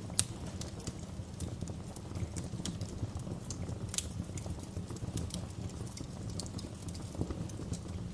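Wood fire crackling: irregular sharp pops and snaps over a steady low rumble, with the loudest pop just after the start and another about four seconds in.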